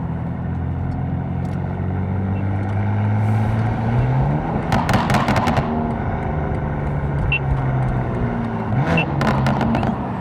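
Catless BMW M4's twin-turbo inline-six pulling under acceleration, engine note rising steadily. It drops in pitch at an upshift about four and a half seconds in, with a burst of exhaust crackles, then does the same again near nine seconds.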